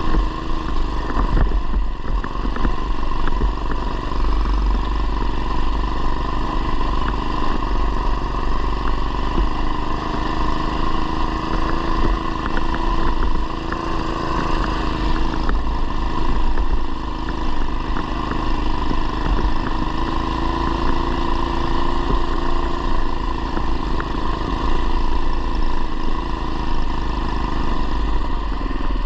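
Single-cylinder 212cc engine of a modified Coleman BT200x mini bike running steadily through a header pipe with muffler, its engine speed rising and falling slightly.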